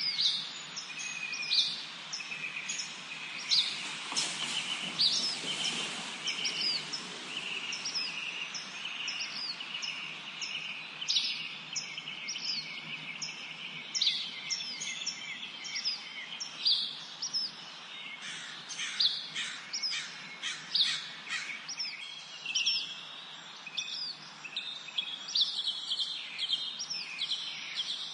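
Several songbirds singing and chirping together in a spring forest chorus: quick high chirps that each sweep downward, repeated over and over, over lower running trills. A brief rush of noise passes about four seconds in.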